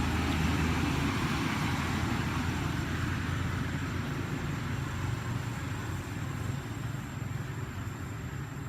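An engine running steadily, with a low hum that slowly fades over the stretch.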